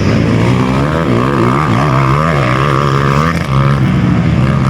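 Dirt bike engines running and revving, the pitch rising and falling.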